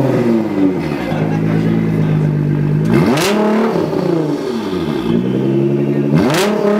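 Nissan GT-R's twin-turbo VR38DETT V6, tuned to over 750 hp, being revved from idle through its exhaust: it falls back from one rev at the start, then climbs quickly and drops back twice, about three seconds apart, with a brief sharp noise at the top of each rev.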